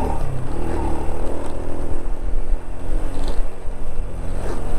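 Honda Dream step-through motorbike's small single-cylinder four-stroke engine running steadily as it is ridden along a rough dirt track.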